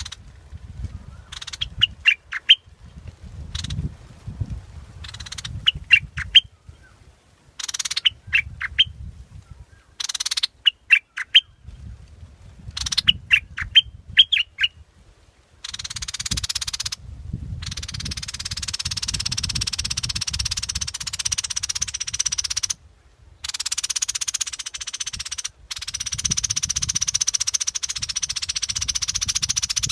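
Bulbul calling from a bird-lure recording. Short phrases of three or four sharp notes repeat every second or two. From about halfway they give way to a dense, continuous high chatter that cuts off abruptly a few times.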